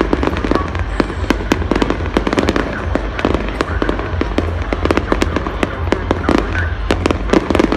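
Fireworks going off in rapid succession: many sharp bangs and pops, several a second and often overlapping, over a constant low rumble.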